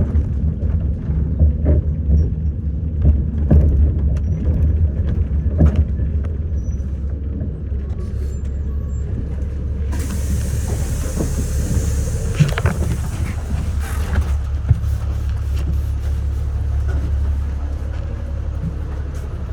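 City bus heard from inside: the diesel engine's low rumble with knocks and rattles of the body, then about halfway through a sudden hiss of compressed air lasting about four seconds from the bus's air system.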